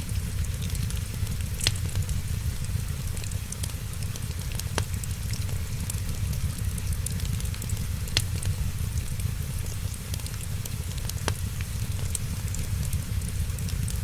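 Wood fire crackling, with a few sharp pops standing out over many small ticks and a steady low rumble.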